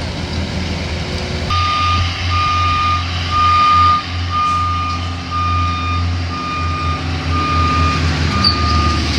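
Backup alarm of a piece of heavy demolition equipment beeping about once a second, starting about a second and a half in, over the steady low running of its diesel engine.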